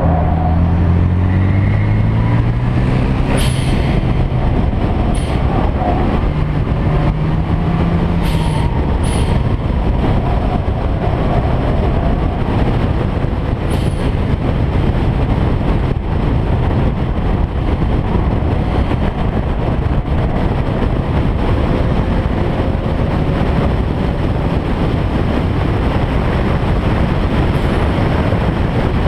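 Car engine and exhaust running hard, climbing in pitch over the first few seconds and then giving a dense, steady roar, broken by several short sharp cracks in the first half.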